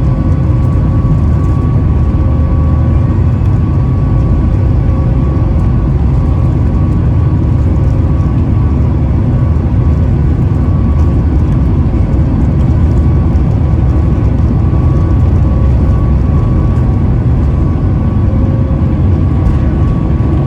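Boeing 737 MAX 8 jet engines heard from inside the cabin: a steady, loud low rumble with a faint steady whine above it.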